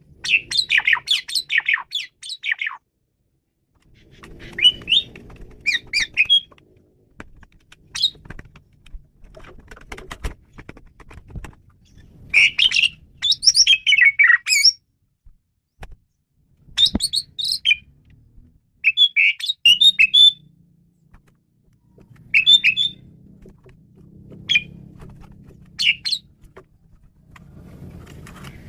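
Male Asian pied starling singing varied song in short bursts of rapid, shifting notes, about ten phrases separated by brief pauses. A faint low rumble sits underneath in places.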